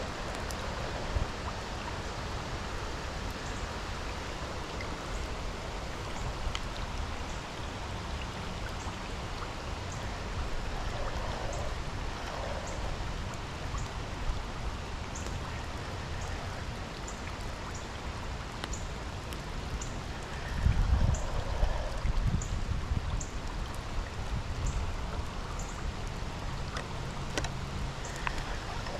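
Rain falling steadily, an even hiss with scattered drops ticking close by. About twenty seconds in a low rumble briefly rises above it.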